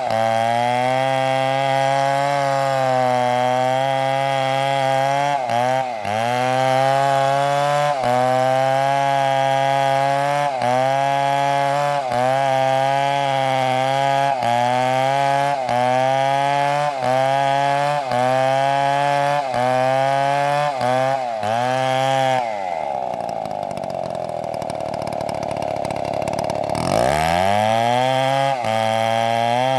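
STIHL chainsaw running at high revs through wood, its pitch dipping briefly about once a second as the chain bites under load. About three-quarters of the way through it drops to a slow idle for a few seconds, then revs back up.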